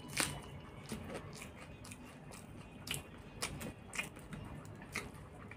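A person biting and chewing food, with a series of sharp crunches: a loud one just after the start, then more about every second.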